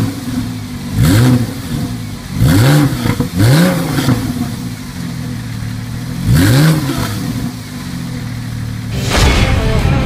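2014 Porsche 911 Carrera 4S's flat-six engine idling and blipped four times through the exhaust, each rev rising and falling in about a second. Near the end a louder, steadier sound comes in.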